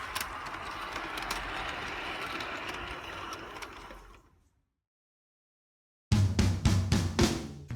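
G-scale garden model train running on its track, a steady mechanical rattle with scattered clicks that fades out. Music with a strong bass and drum beats comes in near the end.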